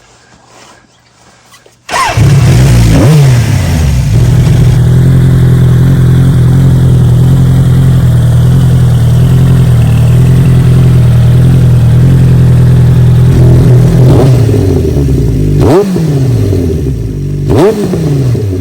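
Suzuki GSX-R1100 inline-four through a LUM aftermarket exhaust, firing up suddenly about two seconds in with a quick rev, then idling steadily. Near the end it is blipped twice, the pitch jumping up and dropping back each time.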